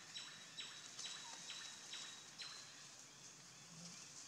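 A bird calling faintly in a rapid series of repeated notes, each a high note that drops steeply in pitch, about two a second, fading out after about two and a half seconds, over a faint steady hiss of ambience.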